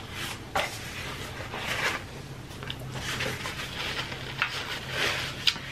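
Close-miked chewing of a soft fish sandwich: wet, squishy mouth sounds with a few small clicks. Later a paper napkin rustles as it is rubbed over the mouth.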